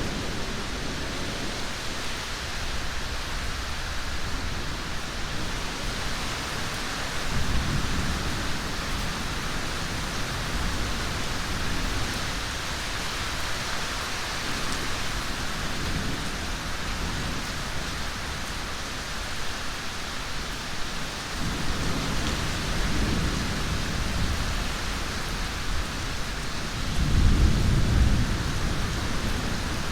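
Steady heavy rain with rolling thunder: low rumbles swell up several times, the loudest near the end.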